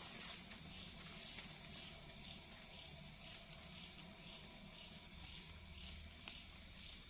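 Faint night insects chirping in a steady pulsing rhythm, a little over two pulses a second, over a low rumble, with a single sharp tick about six seconds in.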